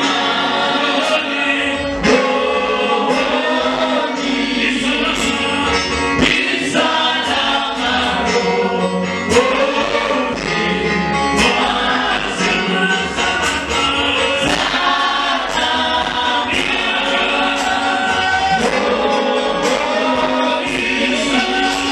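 Gospel choir singing with instrumental accompaniment and a steady beat of percussion hits.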